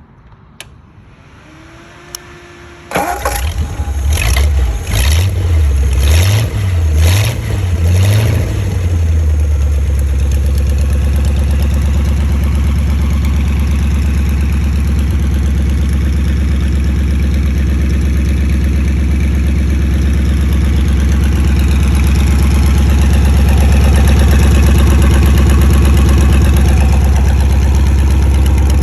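Ford V8-60 flathead V8 motorcycle engine starting about three seconds in, revved in a quick series of blips, then settling into a steady idle.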